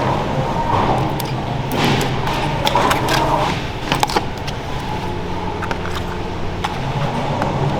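Food-factory work noise: a steady machine hum with scattered clinks and clatter of things being handled.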